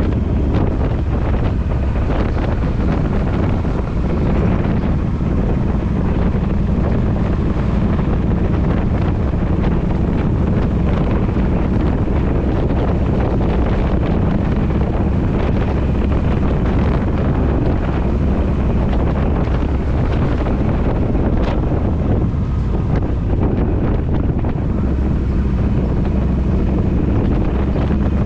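Kawasaki VN1600 Mean Streak's V-twin engine running steadily at an even road speed, under heavy wind noise on the microphone.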